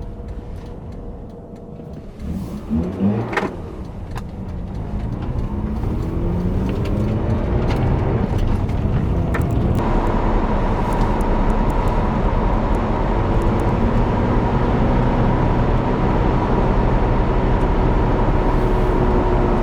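Mazda RX-8's twin-rotor Wankel rotary engine pulling away, its note rising in several steps as it goes up through the gears, then running steadily at cruising speed. A couple of knocks sound about three seconds in.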